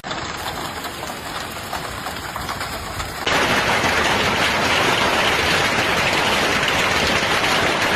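Hailstones and heavy rain pounding down on surfaces, a dense steady rush with no break in it. It jumps abruptly louder about three seconds in.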